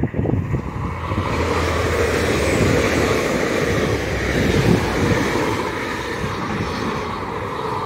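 Class 800 intercity train, nine coaches, passing at speed: a steady noise of wheels on rail and running gear that eases off slightly near the end.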